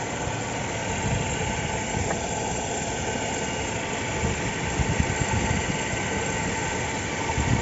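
Engine running steadily with an irregular knocking and crackling, a few louder knocks about five seconds in and near the end.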